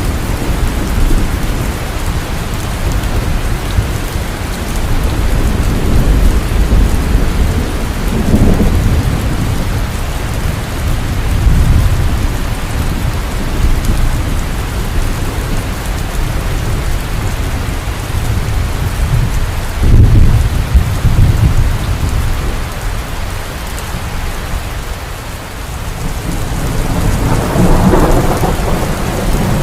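Heavy, continuous rainfall with thunder rumbling low underneath, swelling several times, most strongly about two-thirds of the way through and again near the end.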